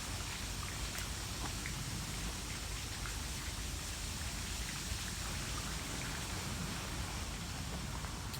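Steady outdoor hiss, like light rain or rustling leaves, with a few faint scattered ticks.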